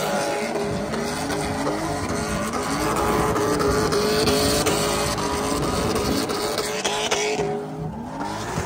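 Drift car's engine revving up and down in repeated swells. The sound thins out briefly near the end.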